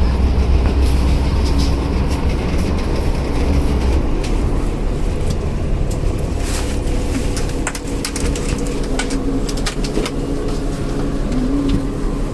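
City bus running at a stop with a deep engine rumble that eases about four seconds in. Scattered clicks and knocks come in the second half.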